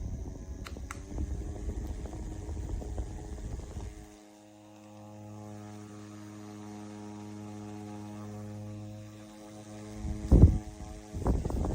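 Small battery-powered handheld fan running: a rumble of air and handling clicks, then about four seconds in a steady electric hum, broken near the end by a loud knock and handling noise.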